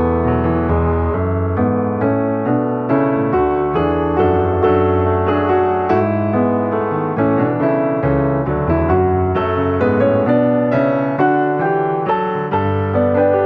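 Background piano music, notes struck in a steady flowing succession.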